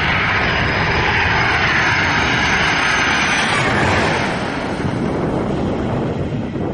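Jet airliner's engines passing close overhead: a loud, steady noise with a thin high whine, the high part fading after about four seconds as the aircraft moves away.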